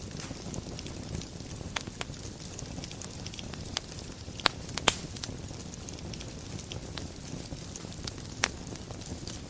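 Wood fire burning in a fireplace: a steady low rumble of flames with scattered sharp crackles and pops, the loudest pair of pops about halfway through.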